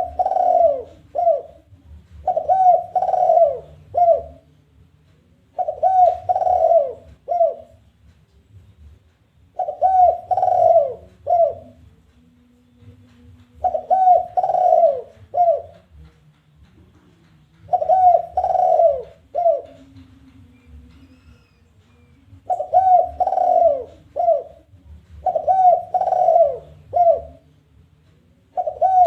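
Spotted dove (tekukur) singing its challenging territorial coo: phrases of two falling coos run together and a short third note, repeated about every three to four seconds.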